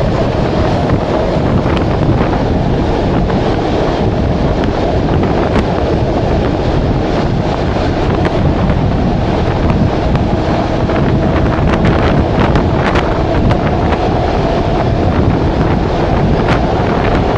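Wind buffeting a microphone held out of the window of a moving passenger train, over the steady rumble of the train running on the rails, with scattered sharp clicks from the wheels and track.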